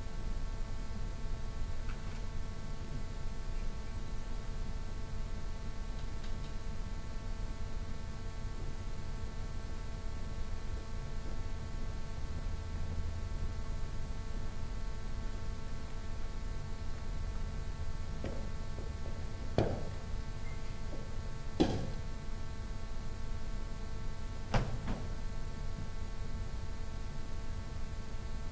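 Steady electrical mains hum over a low room rumble, broken by a few sharp knocks about two-thirds of the way through.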